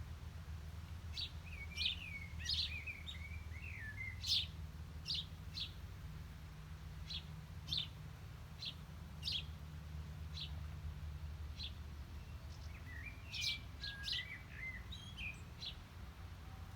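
Small birds chirping, with sharp single chirps every second or so and two bouts of twittering song, one about 2 seconds in and one near the end, over a steady low background hum.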